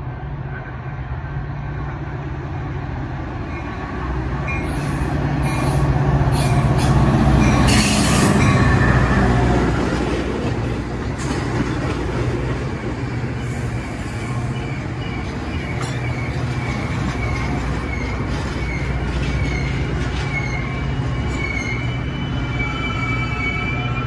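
Metra commuter train pulling into the station. The train rumbles in, loudest about six to nine seconds in as the head end goes by. Its stainless-steel bilevel gallery cars then roll past, slowing almost to a stop, with a high wavering brake squeal through the second half.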